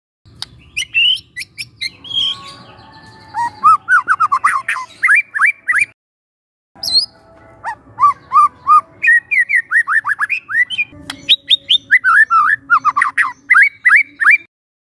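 White-rumped shama singing: rapid runs of short, clear, up-slurred whistled notes in two phrases with a short break between them.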